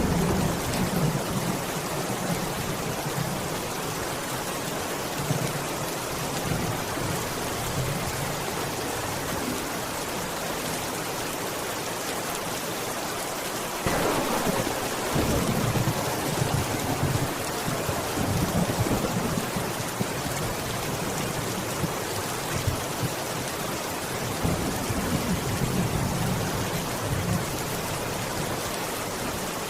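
Steady rain with low rumbles of thunder rolling in and fading several times; a louder roll of thunder starts suddenly about halfway through.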